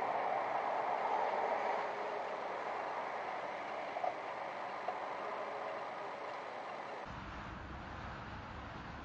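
Steady vehicle driving noise as picked up by a dashcam, with a thin high electronic whine and a couple of faint clicks. About seven seconds in the sound switches abruptly to a different, duller recording with more low rumble.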